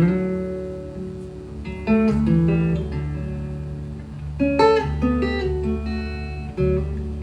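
Acoustic guitar playing the song's intro: four chords struck about two seconds apart, each left to ring and fade before the next.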